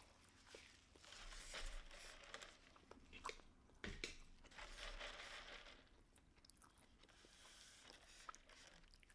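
Faint close-up chewing of food, with a few crunchy bites in two stretches about a second and four seconds in.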